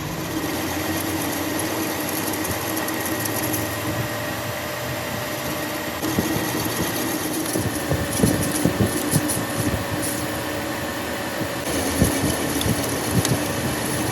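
A workshop machine running steadily with a constant hum; from about six seconds in, irregular rapid clicks and crackles join it.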